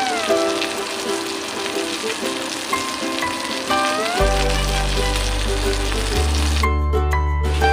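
A fillet sizzling as it fries in hot oil in a frying pan, a steady crackling hiss. Background music plays over it, with a bass line coming in about halfway.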